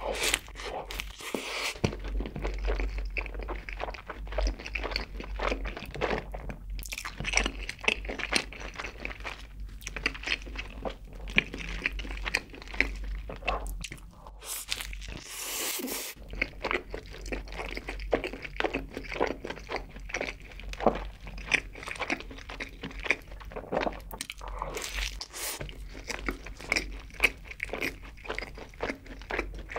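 Close-miked biting and chewing of a triple cheeseburger: a steady run of wet, irregular mouth clicks and smacks.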